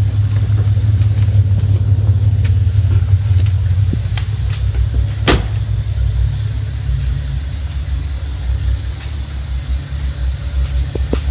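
Nissan Fairlady Z (S30) with a swapped-in 2.8-litre L28 straight-six idling steadily with a low rumble; the engine is new, with about 700 km on it, and still being run in. A single sharp click about five seconds in.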